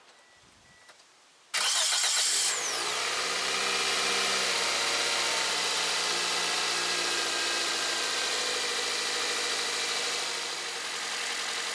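Car engine cranked by its newly installed starter motor, catching almost at once about a second and a half in, then idling, the idle speed easing down as it settles.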